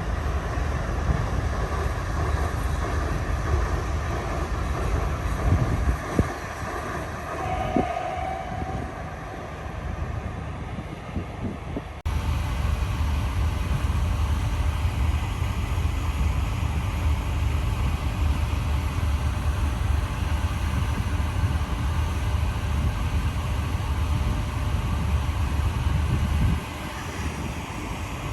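Wind buffeting the microphone over a steady low rumble on the deck of a moving river cruise ship. The sound changes abruptly about twelve seconds in, and the deep rumble drops away shortly before the end.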